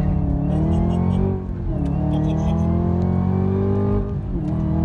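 Chevrolet Camaro ZL1's supercharged V8 accelerating hard. Its pitch climbs, drops sharply at an upshift about one and a half seconds in, climbs again, and drops at a second upshift near the end.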